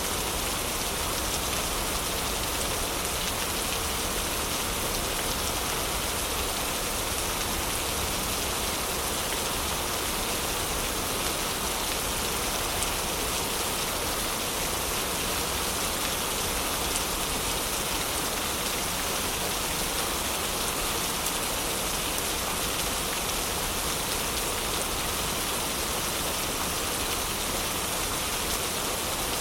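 Heavy rain falling steadily, an even unbroken hiss of rain with no let-up.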